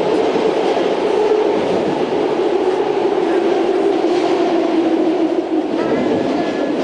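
Train running, heard from inside the carriage: a loud, steady rumble with a hum that slowly falls in pitch.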